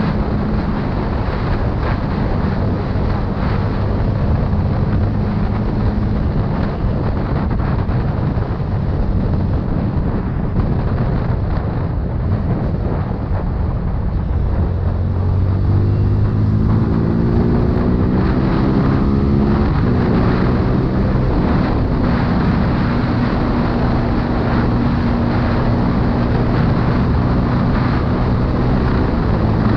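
CFMoto 250 CL-X's single-cylinder engine running under way, with wind buffeting the microphone. Just past the middle the revs climb for about four seconds, then drop suddenly as the next gear is taken, and the engine holds a steady pitch after.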